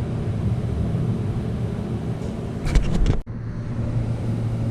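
Steady low mechanical hum, with a short cluster of knocks or rattles a little under three seconds in and a brief dropout just after.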